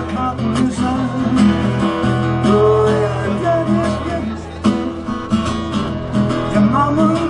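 Live music led by acoustic guitar, playing a passage without lyrics.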